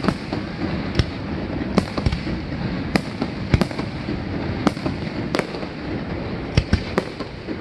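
Aerial firework shells bursting overhead: about ten sharp bangs, roughly one a second, over a steady noisy background.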